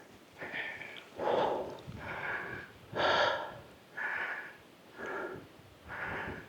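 A person breathing hard while hiking, with heavy, noisy breaths coming about once a second.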